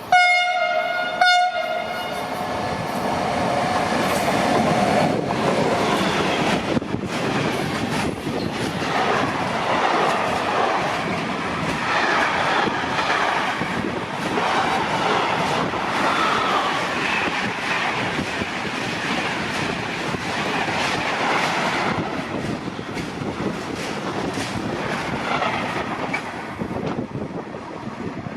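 A train sounds its horn in two short blasts on one pitch, then runs through the station, its passing cars making a long, loud rush of wheel and rail noise with clatter over the rail joints.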